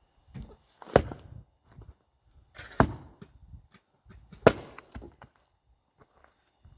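Firewood being split with an axe: three hard strikes about a second and a half to two seconds apart, each a sharp crack of the blade biting and the wood splitting.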